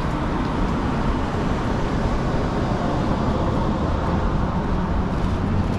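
Steady city traffic noise: a continuous rumble of vehicles with no distinct single event.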